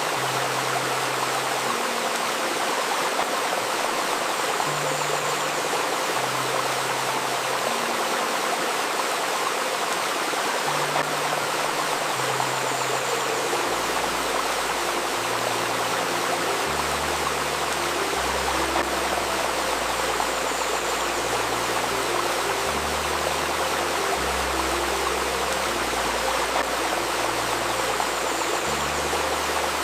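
Steady rushing and babbling of a river stream. Under it, soft music of slow, low held notes that change every second or two, with deeper bass notes joining about halfway through.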